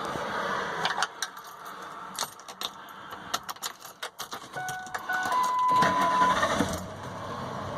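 Truck engine running while its RPM is raised with an external throttle controller: a run of small clicks, then short electronic beeps and one longer steady beep about five seconds in, as the engine noise swells briefly.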